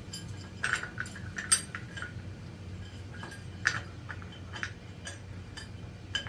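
Light metallic clinks of a Honda CB750 cam sprocket and timing chain being handled and worked onto the camshaft: a few sharp, separate clinks spread over several seconds, over a steady low hum.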